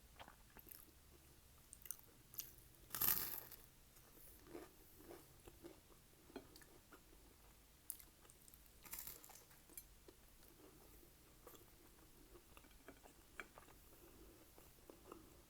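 Close-miked chewing with crisp crunches, as of bites into over-toasted garlic bread. The loudest crunch is about three seconds in and another comes near nine seconds, with scattered small mouth clicks between.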